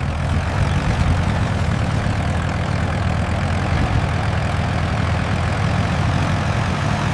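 Tractor engine running steadily, a low, even drone with no change in speed.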